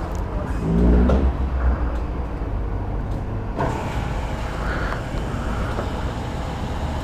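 Motor vehicle noise: a low steady rumble with a hiss that grows louder about three and a half seconds in.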